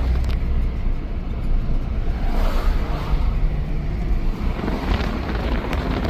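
Car driving along a road: steady rumble of engine and tyres, with some wind noise.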